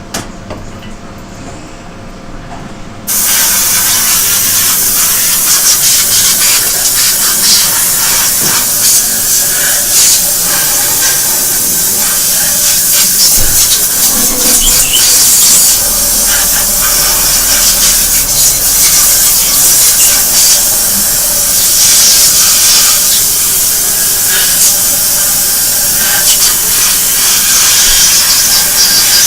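Torrent 500 cleaning machine spraying: a loud, steady hiss of the spray jet that starts suddenly about three seconds in, over a quieter machine hum.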